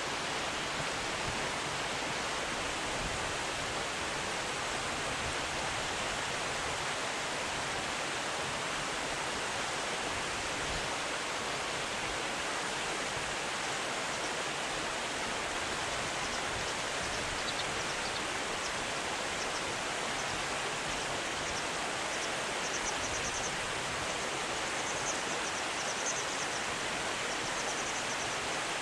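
Steady rush of flowing river water, an even unbroken hiss. From about halfway through, faint high chirps come in short groups above it.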